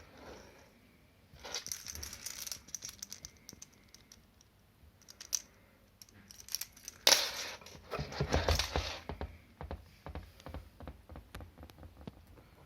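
Handling noise from a dishwasher pump being turned over and set down on a hard surface: irregular clicks, knocks and rattles, with a sharp knock about seven seconds in. The pump is not running.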